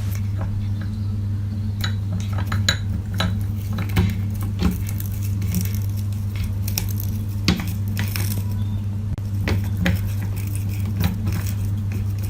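Scattered light clinks and taps, a few a second at irregular spacing, over a steady low hum.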